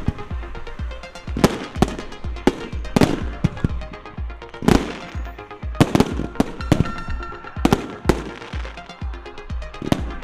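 Fireworks going off in a run of sharp, irregular bangs, about one or two a second, over loud music with a steady bass beat.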